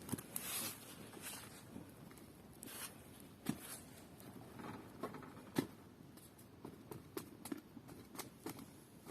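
Faint crackling of a wood and rubbish bonfire burning on its coals, with scattered sharp pops and clicks every second or so.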